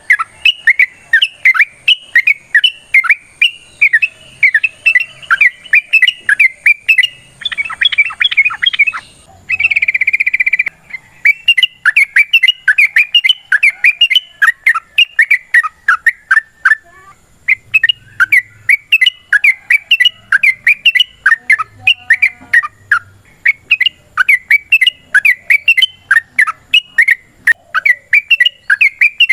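Yellow-vented bulbul singing in a long, fast chattering run of repeated chirping notes, with a short harsh buzzy call about ten seconds in and a brief pause a little past halfway.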